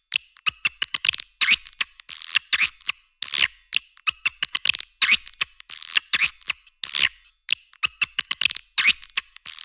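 Recorded swiftlet lure calls: fast trains of high-pitched clicks and twittering chirps in quick bursts with short gaps, the kind of recording played from speakers to attract edible-nest swiftlets.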